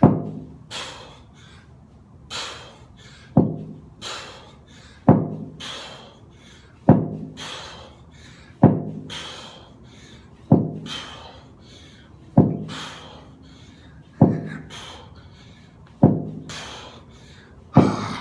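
A man exercising hard through a Tabata interval: a heavy thud lands about every two seconds, one per repetition, with hard breathing in between.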